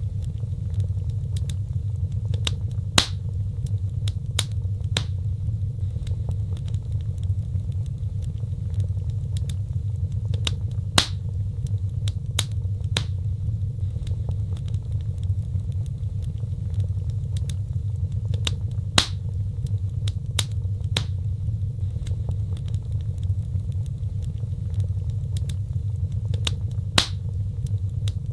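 Wood fire crackling: a steady low rumble with scattered sharp pops and snaps. The loudest pops recur about every eight seconds.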